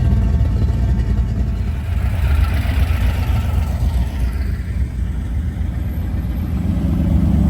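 Car engine running with a deep, steady low rumble, swelling a little near the end.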